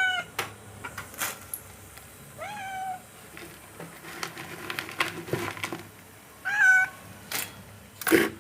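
Domestic cats meowing for food, about three meows that each rise and then fall in pitch: one ending just at the start, one about two and a half seconds in, and one near seven seconds. A few sharp clicks and knocks come between them.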